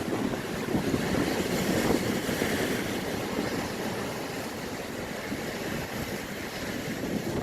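Rough sea waves surging and breaking on the shore, a continuous rushing noise that is a little louder in the first few seconds.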